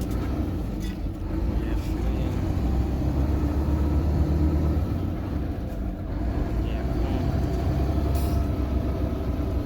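Heavy truck's diesel engine running steadily with a low rumble, with a few faint clicks.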